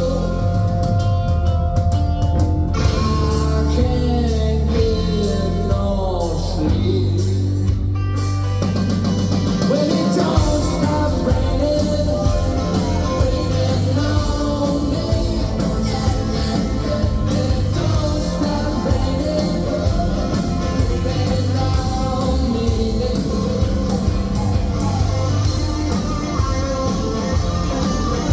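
Live rock band playing a song with singing, guitar and drums. About eight seconds in, the sound shifts after a run of sliding notes.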